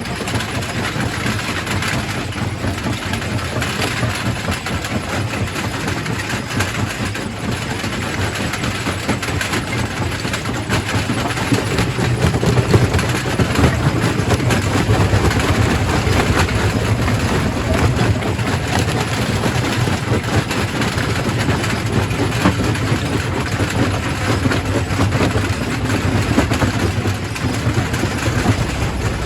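Quarry primary rock crusher working: a steady low machine hum under a continuous clatter and crackle of rock being broken, a little louder from about halfway through.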